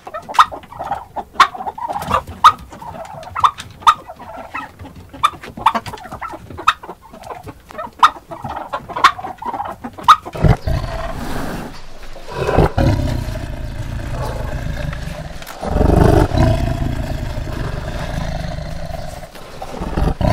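Turkey clucking: short, sharp notes about once a second. About halfway through, a white tiger's low rumbling growl takes over, loudest about three quarters of the way in.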